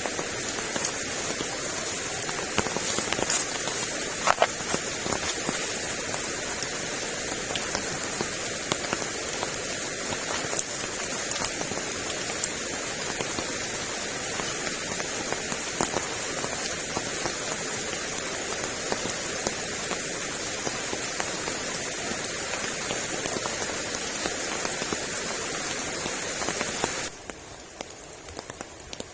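Heavy rain falling steadily, with scattered sharper drop hits; it becomes quieter near the end.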